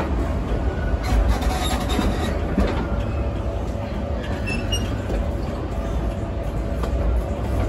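Theme park railway train running along the track, heard from aboard its passenger coaches: a steady rolling rumble and rattle, with a few brief high squeaks about halfway through.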